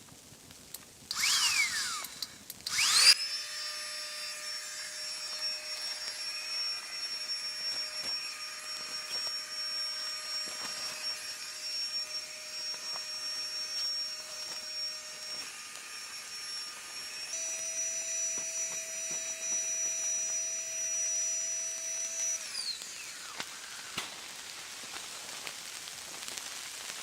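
A small electric motor whining at a steady speed. It spins up quickly after a couple of short rustling noises, holds for about twelve seconds, runs a little higher in pitch for about five more, then winds down and stops.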